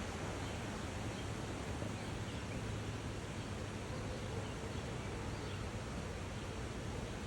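Steady outdoor background noise with faint rustling and no distinct events.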